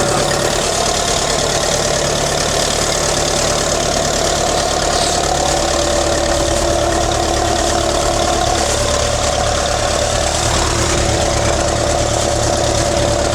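An engine idling steadily with a constant low rumble and an even pitch.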